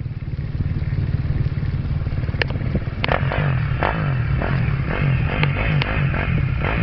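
Motocross bike engine running and coming closer, growing louder over the first couple of seconds, then rising and falling in pitch as the throttle is worked from about three seconds in, with a few sharp clicks over it.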